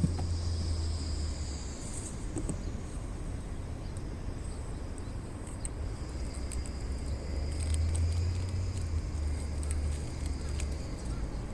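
Insects trilling steadily, with a low rumble that swells twice and scattered faint clicks.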